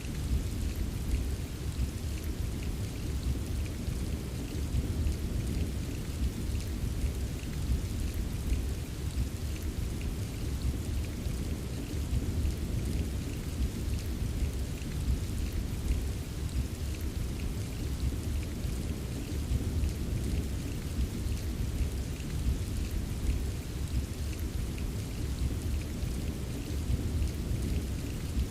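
Steady rain ambience: an even wash of rain that is heaviest at the low end, with faint scattered drop ticks above it.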